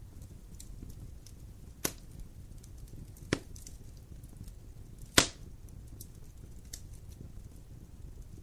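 Wood fire burning with a steady low rumble and faint crackling, broken by three sharp pops of burning logs, about two, three and a half and five seconds in, the last the loudest.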